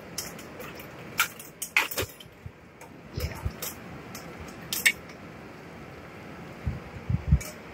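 Glass jar and its lid being handled: several short clicks and clinks in the first five seconds, then a few dull knocks near the end.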